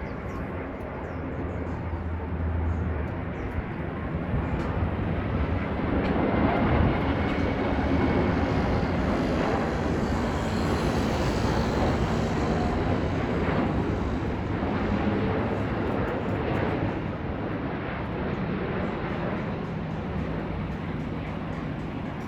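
Jet airliner passing: a broad engine rush that swells about a quarter of the way in, holds for several seconds, then fades, over a steady low hum.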